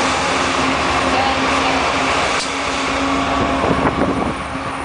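BNSF GE ES44DC diesel locomotives going by on a freight train climbing the grade: a steady engine drone over wheel and rail noise, easing a little near the end as the train moves off.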